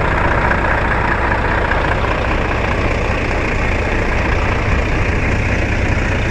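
Heavy truck engine running steadily: a loud, even low drone with a rushing noise over it and no change in pitch.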